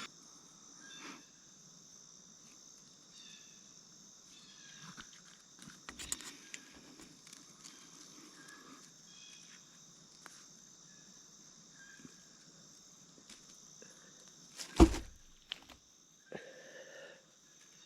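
Steady insect chorus in the background, with scattered small clicks and knocks of camp gear being handled and one sharper, louder knock about 15 seconds in.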